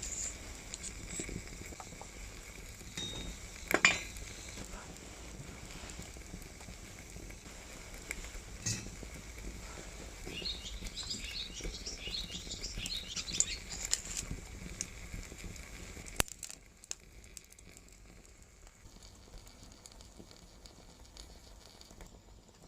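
Small wood fire crackling and popping, with scattered sharp snaps and a flurry of quick light ticks; the sound drops to a quieter hush about two-thirds of the way in.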